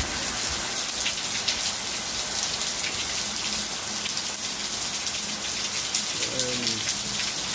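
Heavy rain falling steadily, with single drops hitting close by among the general hiss of the downpour.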